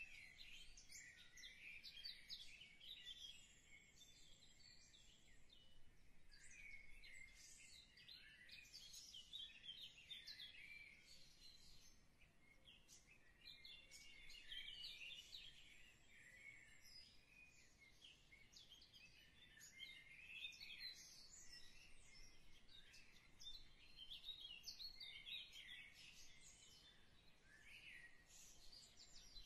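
Faint birdsong: many short chirps and quick falling whistles from several birds, overlapping continuously.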